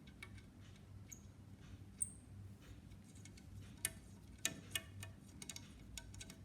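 A screw being turned out of the underside of a model airliner with a small screwdriver: faint, scattered metallic clicks and ticks. They come more often and a little louder from about four seconds in.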